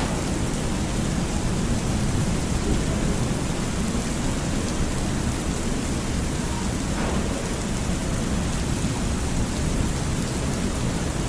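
Thunderstorm ambience: steady rain with a continuous low rumble of thunder.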